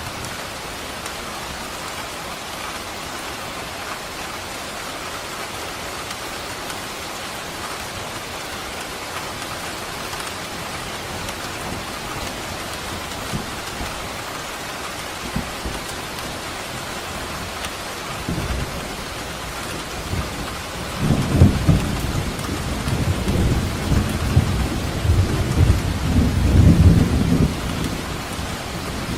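Steady rain falling, an even hiss, with a long low rumble of thunder that builds about two-thirds of the way in and dies away near the end.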